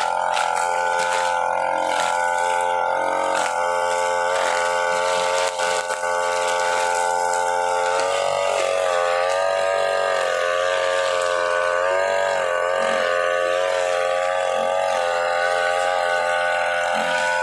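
UMA UM328 two-stroke brush cutter engine running at high revs with nylon trimmer line spinning. The engine note holds steady at first, then wavers up and down from about halfway through.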